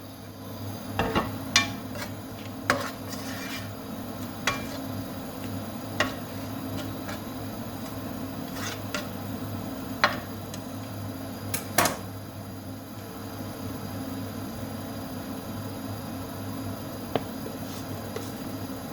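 Kitchen cookware and utensils clinking and knocking, about ten sharp, separate clinks spread out, over a steady low hum.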